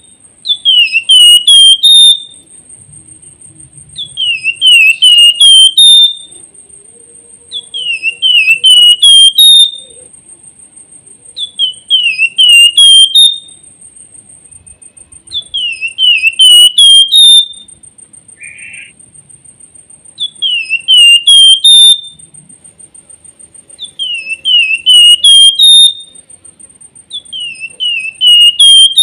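Javan fulvetta (flamboyan, wergan jawa) singing: the same short phrase of about five quick, rising whistled notes, repeated about every four seconds. A faint steady high whine runs underneath.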